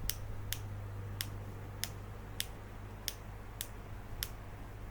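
A run of short, sharp clicks, about eight of them at a fairly even pace of a little under two a second, over a low steady hum.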